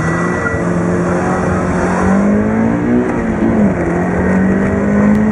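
Car engine heard from inside the cabin, accelerating hard from the start of a timed run. Its pitch holds for about two seconds, then climbs, drops once at a gear change about three and a half seconds in, and climbs again.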